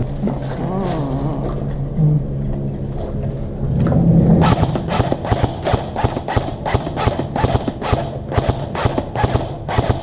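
Airsoft guns firing a long, even string of shots, about three or four a second, starting about four seconds in.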